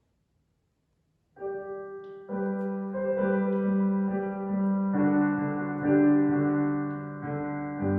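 A keyboard instrument comes in about a second and a half in, playing slow held chords that change every second or two, after a moment of silence.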